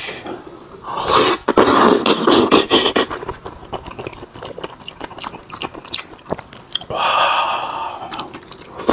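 Close-miked wet chewing and biting as a person eats sauce-covered braised pig's head meat, with many small mouth clicks and two louder, wetter stretches, about a second in and again around seven seconds.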